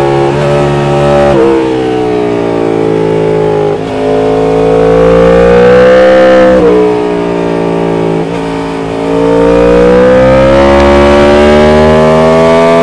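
2016 Yamaha MT-10's crossplane inline-four, through an Austin Racing aftermarket exhaust, pulling hard under load. The revs climb and then break at several gear changes. The engine is loudest about two thirds of the way through.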